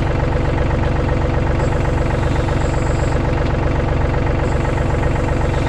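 An engine idling steadily, an even low running with a fast regular pulse that holds unchanged throughout.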